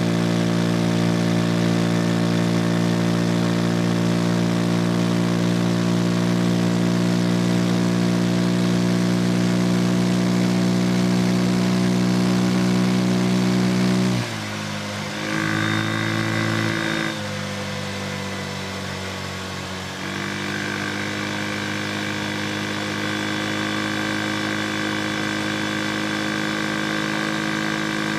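Vespa Sprint 150 scooter engine running at a steady, even pitch. About 14 seconds in it drops lower and quieter, with another brief tone for a couple of seconds, then picks up again about 20 seconds in and runs steady.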